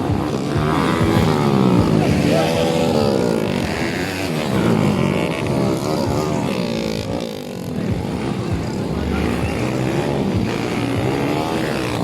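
Motocross bikes racing on a dirt flat track, their engines revving up and dropping again and again, at times more than one at once.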